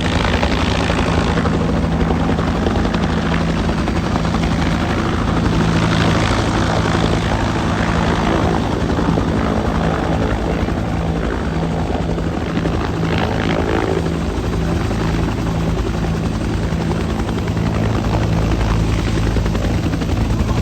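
Helicopter in flight: steady rotor thrum and turbine noise.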